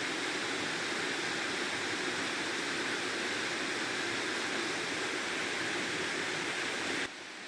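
Steady rushing of a waterfall. It cuts off abruptly near the end, leaving a quieter hiss.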